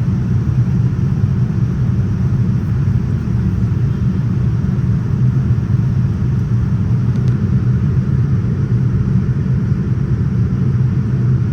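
Steady low rumble of a Boeing 787-9 airliner's cabin in flight, airflow and engine noise heard from inside the cabin.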